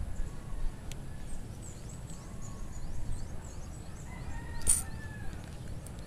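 Birds calling: a run of quick, high, falling chirps, then one louder call nearly five seconds in, over a steady low rumble.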